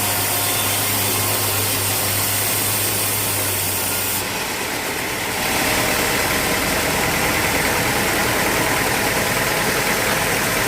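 Sawmill machinery running steadily with a constant hum. About four seconds in the sound dips briefly, then comes back louder and rougher.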